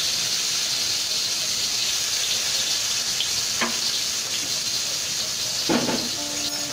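Garlic and fermented bean curd (fu yu) sizzling steadily in hot oil in a wok. A light click comes about three and a half seconds in, and a louder knock a little before the end.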